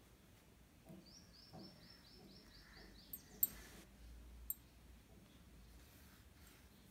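A bird chirping faintly, a quick run of about nine short falling chirps. A few sharp clicks follow, the loudest about three and a half seconds in.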